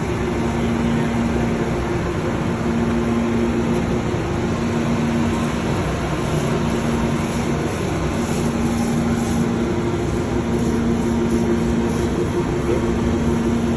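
Steady drone of river boat machinery: a constant low hum with noise over it, unchanging throughout.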